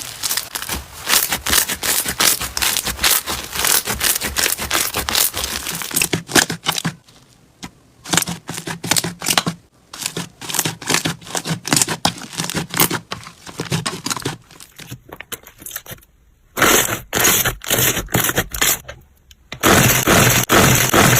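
Slime being squeezed and pressed by hand, giving dense crackling and popping, in several stretches with brief pauses between them.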